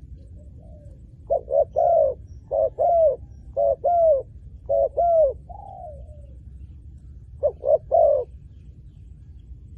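Spotted dove cooing: about five short coo phrases in quick succession, each a couple of clipped notes ending in a longer falling coo, then a pause and one more phrase near the end.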